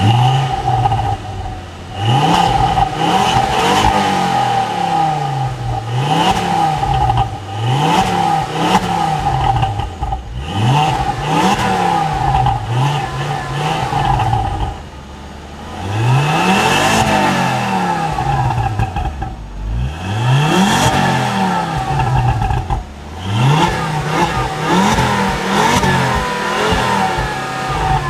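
Ford Focus ST's turbocharged 2.5-litre five-cylinder engine revved repeatedly while stationary. The revs rise and fall about every two seconds, with a few longer, higher revs past the middle.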